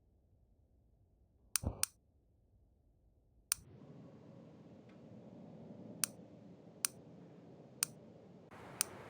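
A series of sharp, separate clicks over a faint hiss, with a short low thud along with the first two.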